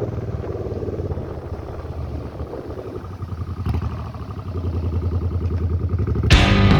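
Suzuki Boulevard M800's V-twin motorcycle engine running while riding. The engine eases off a little mid-way, then gets louder again. Music comes in just before the end.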